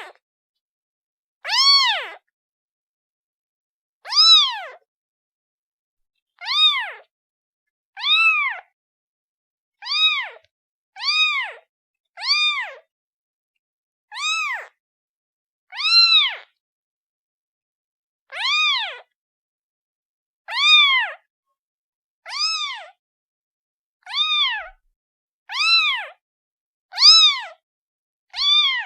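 A kitten meowing to call for its mother: about sixteen short, high-pitched meows, each rising then falling in pitch, repeated every second and a half to two seconds.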